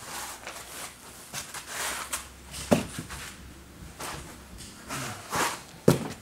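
Cardboard box and packaging being handled: rustling and scraping, with two sharp knocks, one near the middle and one near the end.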